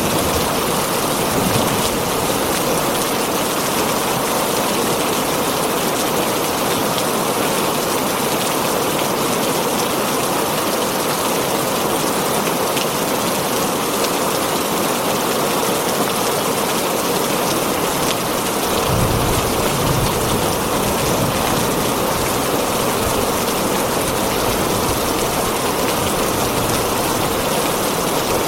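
Heavy rain drumming steadily on a tin roof, a dense even hiss, with a brief low rumble about two-thirds of the way through.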